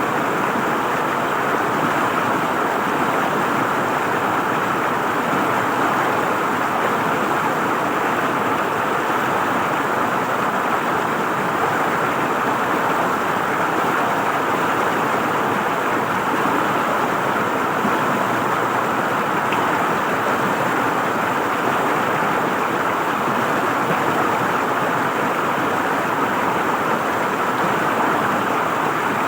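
River water flowing and gurgling over stones, a steady rushing noise that keeps an even level.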